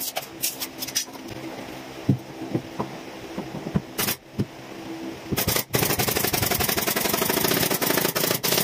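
Carpentry work: a few scattered knocks and taps, then about two-thirds of the way in a power tool starts up and runs with a fast, even rattle until the end.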